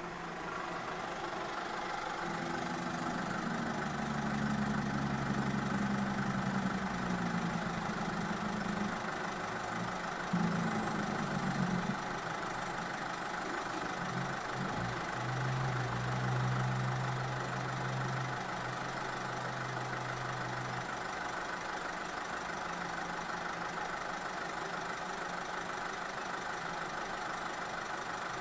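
Car engine and road noise while driving. The engine note changes pitch several times in the first twelve seconds, holds a steady tone for a few seconds, then fades into a steady tyre and road hiss.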